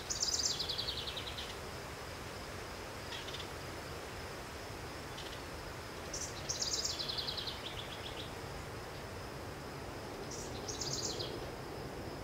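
A songbird repeats a fast trill that steps down in pitch, three times about five seconds apart, over a steady outdoor background noise with a thin, steady high whine.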